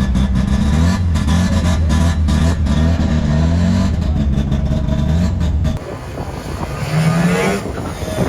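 Car engine with a deep, steady exhaust note running at low revs close by, dropping away suddenly about six seconds in. Near the end a second vehicle passes with a brief rise and fall in pitch.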